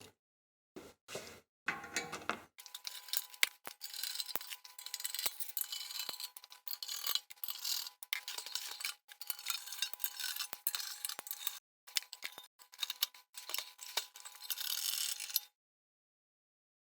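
Metal toaster parts scraping, clinking and rattling as the toaster is taken apart by hand, after a few short knocks. A faint steady tone runs under the rattling, which stops suddenly near the end.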